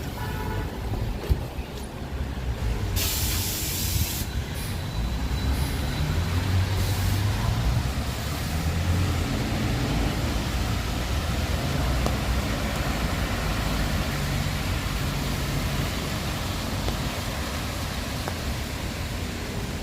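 Vehicle traffic on a wet street: a short, loud hiss about three seconds in, then the low running of an engine over steady wet-road and rain noise.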